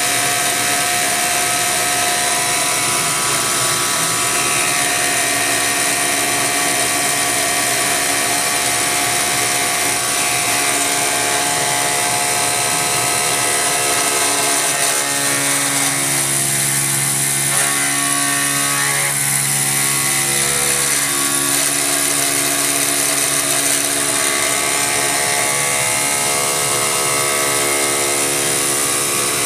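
CNC milling machine's belt-drive spindle running with a cutter milling metal: a steady whine and hiss with several steady tones. About halfway through, a lower hum grows stronger for several seconds and then eases back as the load on the cutter changes.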